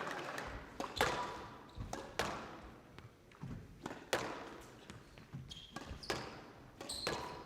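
Squash ball struck by rackets and hitting the court walls in a rally, a sharp crack every second or two, with sneakers squeaking on the court floor near the end.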